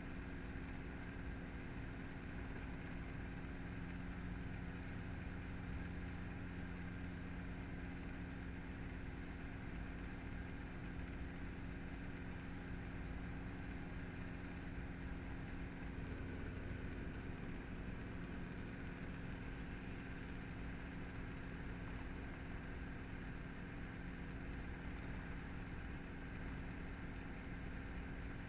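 Helicopter engine and rotor running steadily in flight, heard from inside the cabin as a constant mechanical hum with several steady tones.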